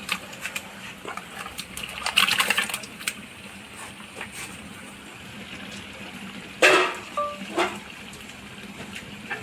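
Washed raw mutton pieces being tipped into a pot of wet masala: wet sliding and plopping with light clatter around two seconds in, and a louder wet splat about two-thirds of the way through.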